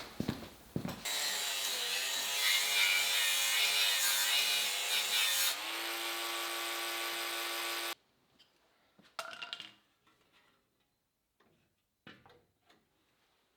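A power tool working metal, loud and gritty with a wavering motor note, then spinning free with a steady whine before stopping abruptly. A few faint knocks follow.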